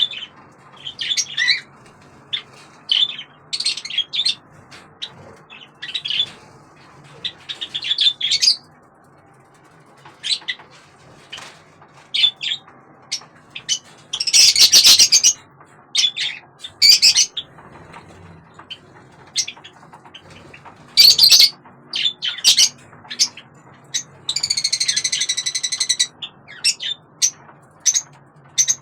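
Budgerigar calling in many short chirps, with a loud harsh squawk about halfway through and one drawn-out call of about two seconds near the end.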